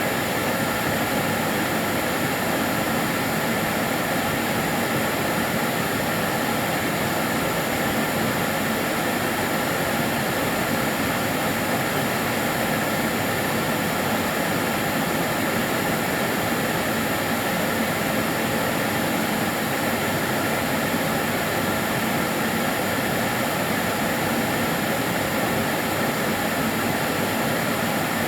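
Karcher DS 6 Premium water-filter vacuum cleaner running steadily, a constant hiss of rushing air over a motor whine, with no change in pitch or level.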